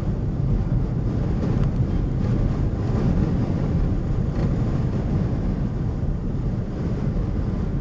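Strong inflow wind blowing toward the tornado, buffeting the vehicle and the microphone as a steady low rumble.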